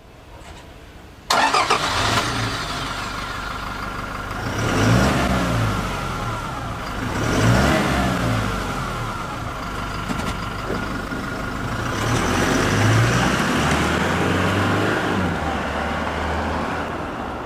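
Toyota Hilux GUN125's 2.4-litre four-cylinder turbodiesel exhaust through the stock (factory) muffler, driven at low speed. It comes in suddenly about a second in, and the engine note rises and falls a few times.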